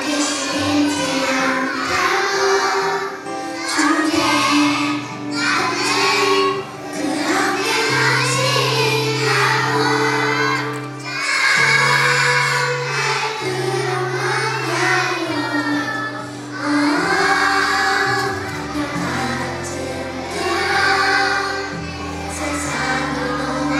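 Children singing a song over a recorded backing track with a steady bass line.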